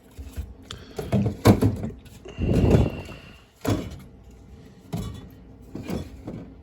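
A series of knocks and thuds from objects being handled, with one longer, louder rustling clatter near the middle.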